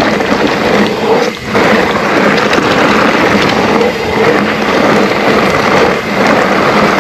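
Steady, loud rumble and rush of an electric mountain bike descending rough double track: tyre noise over the surface mixed with wind on the action-camera microphone, with a brief dip about a second and a half in.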